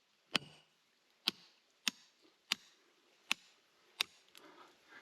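Hammer blows on rock: six sharp, ringing strikes at a steady pace, as a boulder is being broken up.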